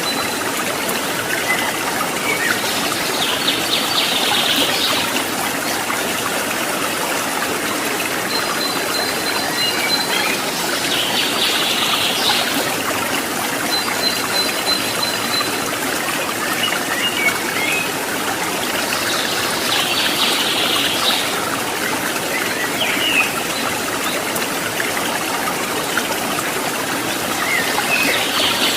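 Running water of a mountain stream flowing steadily. A short, high pulsing call repeats about every eight seconds, with a few faint chirps and trills between.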